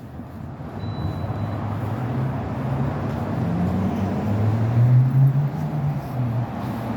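Street traffic with a motor vehicle's engine running close by, growing louder to a peak about five seconds in.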